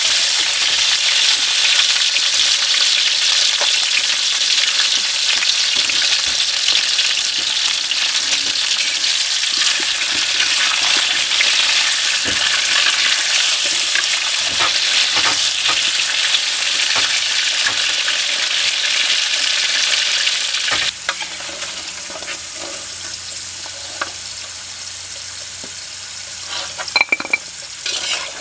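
Cassava chunks deep-frying in oil in a metal wok, sizzling loudly and steadily. About three-quarters of the way through the sizzle drops suddenly to a softer level, and near the end a metal spatula scrapes and clinks as it turns the pieces.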